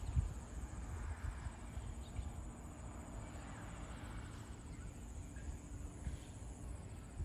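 Insects trilling steadily in a high, fast-pulsing tone, over a constant low rumble.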